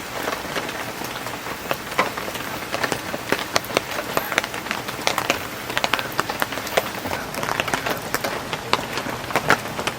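Heavy rain falling steadily, with many individual drops striking a nearby surface as sharp ticks.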